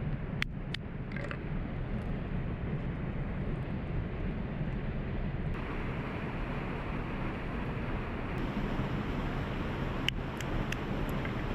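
Waterfall rushing steadily, with a few light sharp clicks or taps near the start and again near the end. The hiss turns brighter about halfway through.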